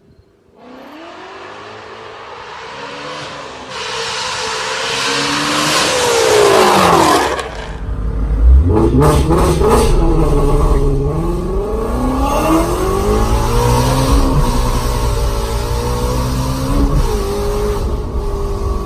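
Ford Shelby GT350's 5.2-litre V8 accelerating hard, its pitch climbing for about seven seconds. It then drops off with a quick series of sharp pops, and keeps revving up and down.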